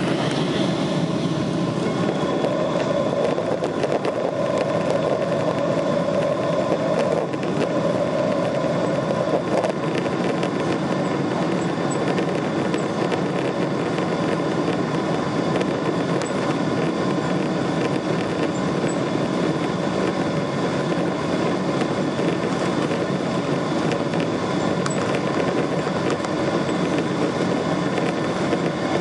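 Boeing 777-200 airliner with its jet engines running: a steady rumble with faint, even whining tones, holding a constant level.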